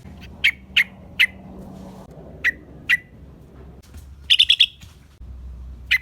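Yellow-vented bulbul (trucukan) calling: short, sharp chirps, some in quick pairs, then a rapid burst of four or five notes a little after four seconds in. It is a lively lure call of the kind played to draw in other bulbuls.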